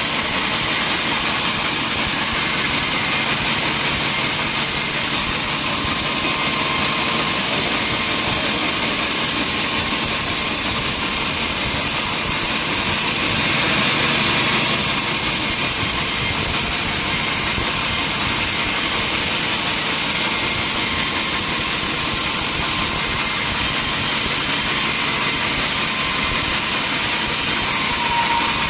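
Sawmill machinery running with a saw cutting through wood: a steady, even noise that gets a little brighter about halfway through.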